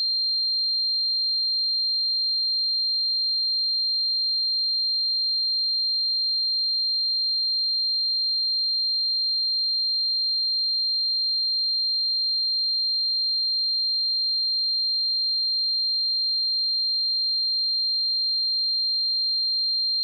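A pure 4181 Hz sine-wave test tone, one steady high-pitched pitch held at constant level, used for testing speakers and headphones.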